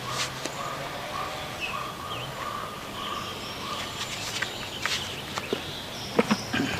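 Outdoor ambience with birds chirping and a steady wavering tone in the background, and a few light clicks and rustles, more of them near the end.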